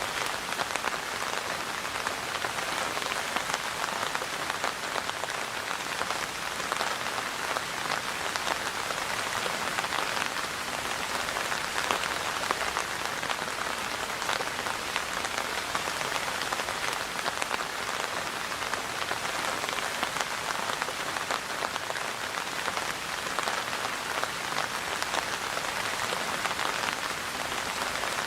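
Steady rain falling and pattering on a surface, a dense even hiss of many small drop impacts.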